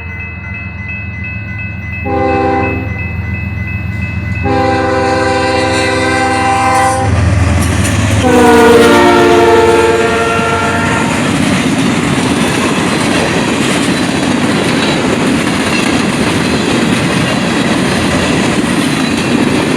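Locomotive horn sounding for a grade crossing: a short blast about two seconds in, then a long blast, then a last blast that drops in pitch as the locomotive passes. After that the train's cars roll past with a steady loud rumble and wheel clatter.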